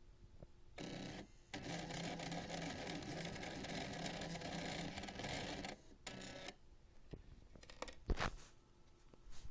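Small stepper motors from CD drives and 3.5-inch floppy drives buzzing as a homemade CNC plotter moves its axes. There is a short run, then about four seconds of steady buzzing at a held pitch that stops suddenly, then a brief run and a single knock near the end.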